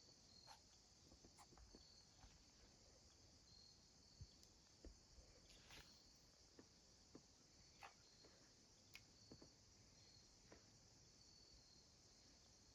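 Near silence: a faint, steady, high chirring of insects such as crickets, with occasional short high chirps and scattered small clicks and taps.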